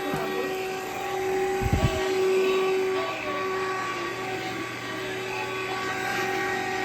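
Cordless vacuum cleaner running with a steady motor whine, its pitch wavering a little as it cleans. There is a short low thump about two seconds in.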